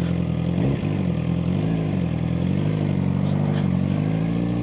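Suzuki GSX-R600's inline-four engine idling steadily, its speed rising and falling slightly a couple of times in the first half.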